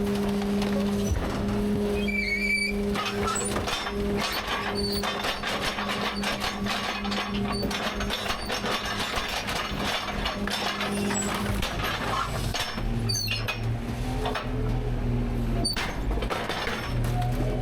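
Rear-load garbage truck's packer crushing trash in the hopper: a steady engine and hydraulic hum under a dense run of cracking, snapping and clinking debris. About twelve seconds in, the hum shifts to a lower pitch as the packing cycle changes.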